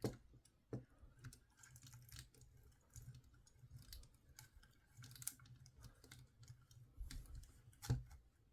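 Faint clicks and light rattles of hard plastic toy parts being handled, with a few sharper clicks at the start, about a second in and near the end.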